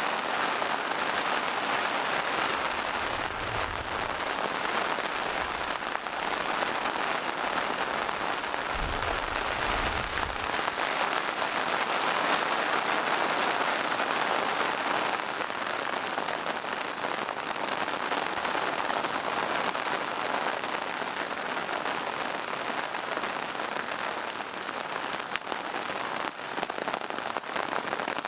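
Steady rain falling in a forest, a dense even hiss of many fine drops on leaves and rocks. A brief low rumble comes twice, about three and nine seconds in.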